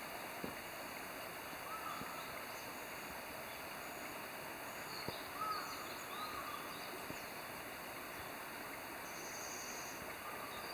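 Outdoor ambience: a steady rushing hiss with faint, scattered bird chirps and a few soft clicks.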